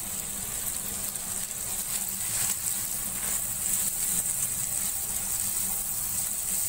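Shredded cabbage, capsicum and carrots sizzling steadily in hot oil with chicken in a nonstick pan, stirred with a spatula.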